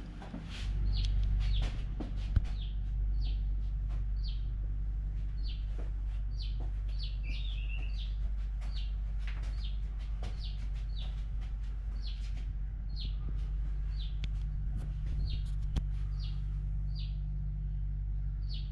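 A bird chirping over and over, short high chirps at about two a second, over a steady low hum.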